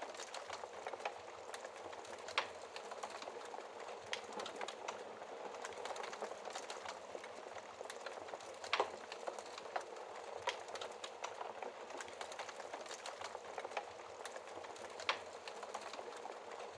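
Wood fire burning in a fireplace: a steady hiss with frequent small crackles and a few sharper pops, loudest about two seconds in, near the middle and near the end.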